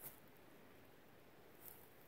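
Near silence, with two faint brief rustles, one right at the start and one near the end.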